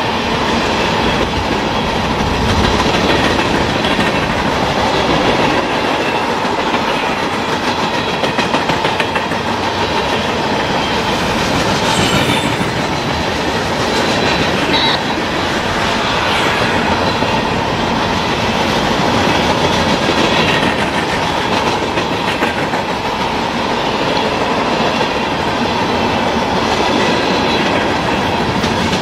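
Freight cars of a mixed freight train rolling past: a steady rolling noise and clatter of steel wheels on the rails.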